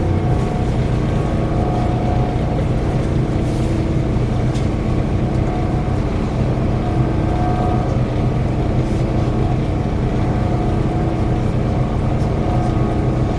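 Scania K340 coach running steadily, a whirring whine with a few steady tones held over the low drone of the engine.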